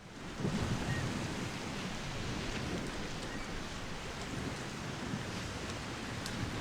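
Ferry crossing ambience: a steady rush of wind and water with a low rumble underneath, fading in at the start.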